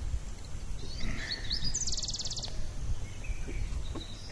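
Birds chirping outdoors, with a short rapid trill about two seconds in, over a steady low rumble.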